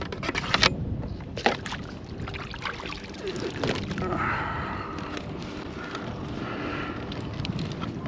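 Clicks and knocks on a plastic fishing kayak as a redfish is handled and measured, the loudest knocks in the first two seconds, with some water sloshing.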